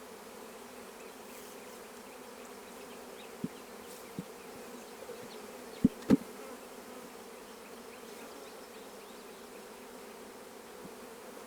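Honeybees buzzing steadily around an open hive during installation, a constant low hum. A few short sharp knocks sound about halfway through, two of them close together.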